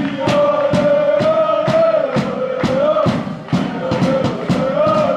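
Football supporters singing a chant in unison, with a drum beating steadily about twice a second.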